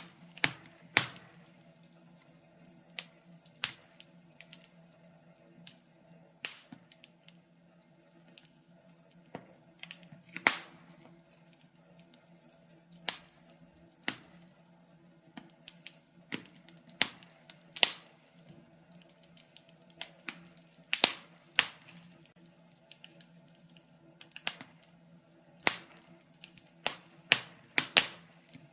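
Fireplace fire crackling: irregular sharp pops and snaps, from a few quiet ticks to several loud cracks, bunched more thickly in the second half, over a faint steady low hum.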